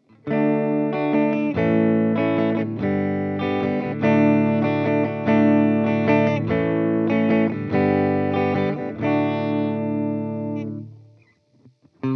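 Electric guitar, an Epiphone Les Paul Special on both pickups, strumming chords through a Joyo Vintage Phase phaser pedal into a Fender Tone Master Twin amp, with a slow pulsing sweep in the held chords. The last chord rings out and fades about eleven seconds in.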